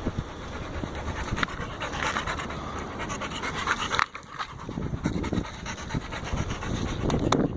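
A dog panting quickly and rhythmically, with a short break a little past halfway.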